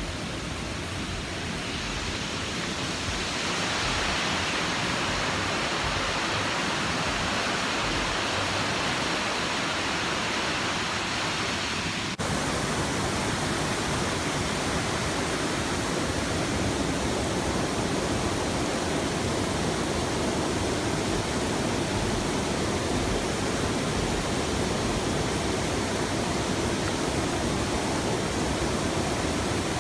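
Waterfall rushing: a steady, even roar of falling water. About twelve seconds in the sound cuts abruptly to another stretch of falling water that sits lower and fuller in pitch.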